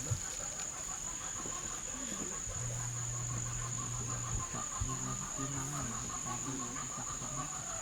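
Insects chirping and trilling steadily, over a continuous high-pitched drone, with a few faint low calls mixed in.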